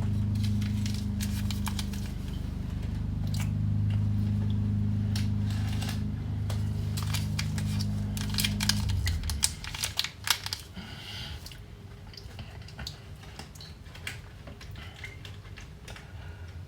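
A steady low electric hum from a kitchen appliance cuts off about nine seconds in. Light clicks and clatter of kitchen handling run through it and carry on after.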